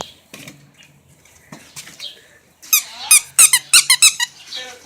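Rubber squeaky dog toy being squeezed: a quick run of about eight short, high squeaks just before the end, after a few faint knocks.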